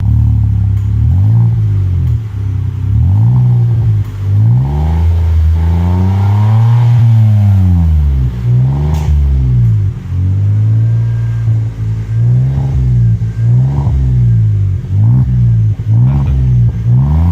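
Datsun GO's 1.2-litre three-cylinder engine, breathing through an aftermarket Alpino exhaust, being revved repeatedly while standing. There are many short blips of the throttle and one longer, higher rev about five to eight seconds in.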